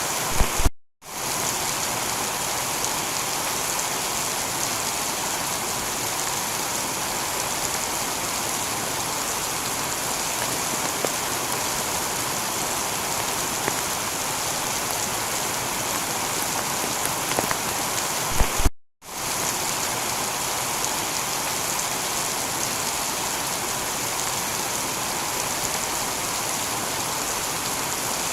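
Steady heavy rain shower falling on a tiled roof. The sound cuts out completely for a split second twice, each time just after a short low knock.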